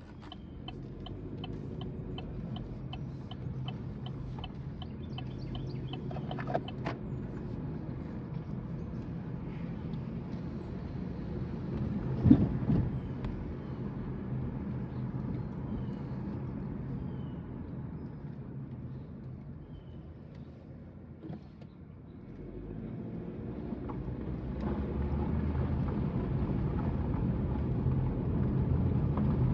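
Car interior while driving: a steady low hum of engine and road noise, with a quick regular ticking during the first several seconds and a single sharp knock, like a bump in the road, about twelve seconds in. The noise fades a little about two-thirds of the way through, then grows steadily louder as the car picks up speed.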